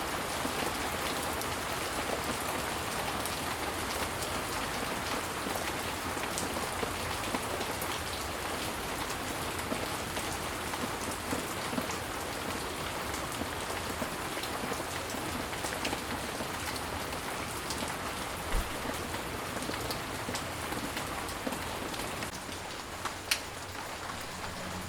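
Steady rain falling, a dense hiss with individual drops ticking now and then and two sharper drop hits near the end.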